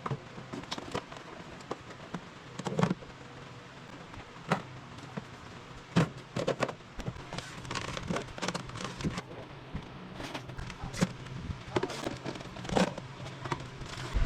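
Irregular clicks and knocks, a few each second, with louder knocks about three seconds in, at six seconds and near the end, typical of objects being handled and set down.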